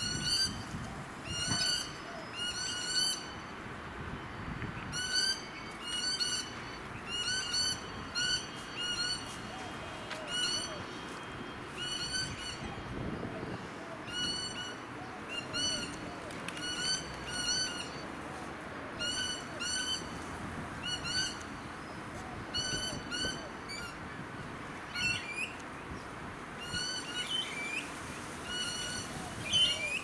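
A bird calling a short, hooked note over and over, roughly once a second and often in pairs. Other bird chatter mixes in near the end.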